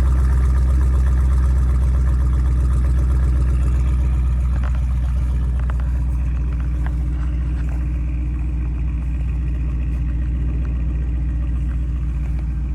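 Mercedes CLS 55 AMG's supercharged 5.4-litre V8 idling steadily on a cold start, with a deep, even hum; the idle eases down slightly about four seconds in.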